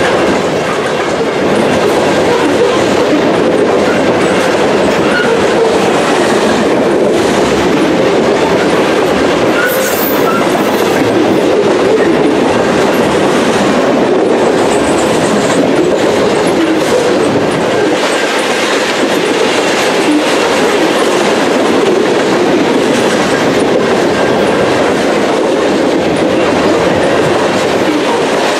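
Covered grain hopper cars of a long freight train rolling past at speed: a steady, loud rumble and clatter of steel wheels on rail, with a brief high squeal about ten seconds in.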